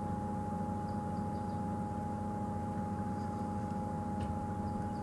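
Game-drive vehicle's engine idling steadily as a low hum, with a steady high tone over it. A few faint bird chirps come through.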